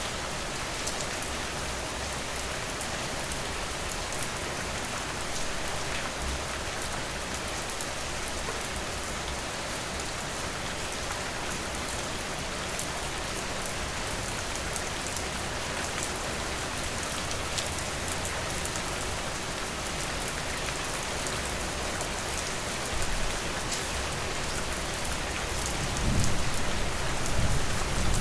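Steady rain falling on a porch, an even hiss with many scattered sharp drop ticks. A low rumble swells near the end.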